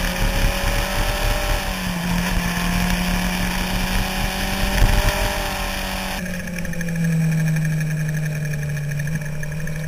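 Sport motorcycle engine running steadily under way, its pitch rising and falling gently through the curves, with wind noise over the bike-mounted microphone. About six seconds in the sound changes abruptly to another bike's engine and wind.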